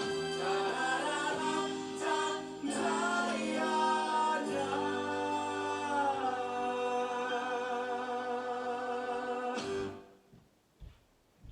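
Closing bars of a show tune: singing voices over instrumental backing, ending on a long held chord that stops about ten seconds in. A few faint clicks follow.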